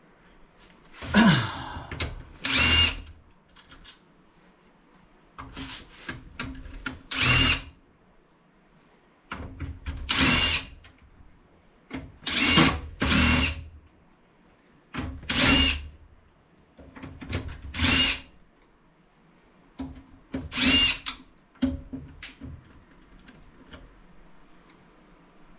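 Cordless power drill-driver running in short bursts of about a second, often two close together, with a steady high motor whine, as it backs screws out of a computer case.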